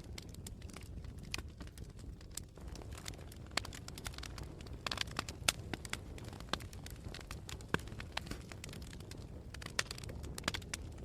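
Campfire of burning wood crackling, with sharp snaps and pops at irregular intervals that come thicker around the middle and near the end, over a low steady rumble.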